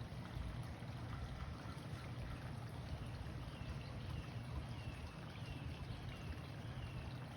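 Steady low rushing noise, with a small bird giving a string of short, falling chirps about every half second from about three seconds in.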